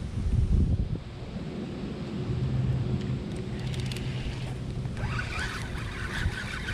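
Wind buffeting the microphone on a fishing boat, gusting hardest in the first second, over a low steady hum. About five seconds in, a rapid rattling starts.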